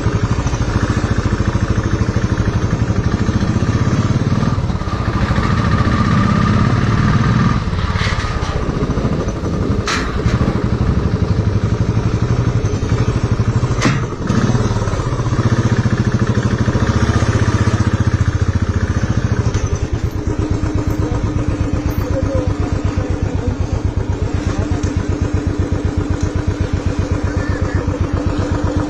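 Motorcycle engine running steadily, with a couple of sharp knocks about ten and fourteen seconds in.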